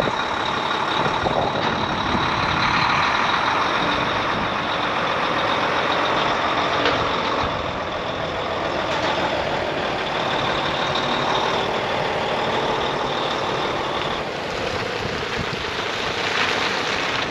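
Heavy diesel truck running steadily, with a thin high-pitched whine over the engine noise that stops about fourteen seconds in.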